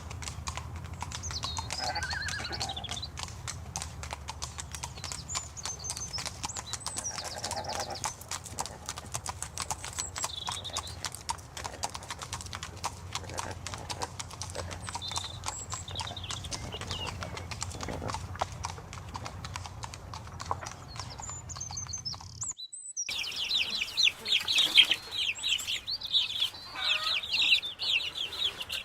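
Horse hooves clip-clopping in a fast, steady stream of clicks, over a low hum. About three-quarters of the way through this cuts abruptly to a crowd of small birds chirping and peeping at a high pitch, typical of a group of chicks.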